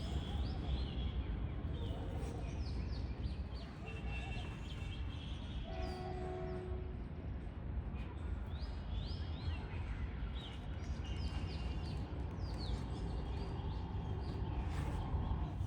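Several birds chirping in quick, downward-sweeping notes, over a steady low rumble.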